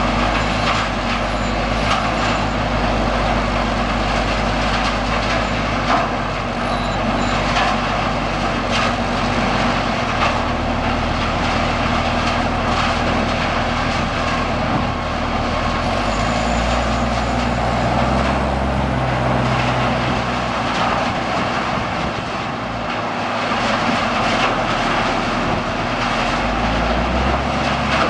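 Mobile trommel screen running under load: a steady machine drone whose low hum shifts in pitch a few times, over the constant rattle and patter of material tumbling through the rotating screen drum.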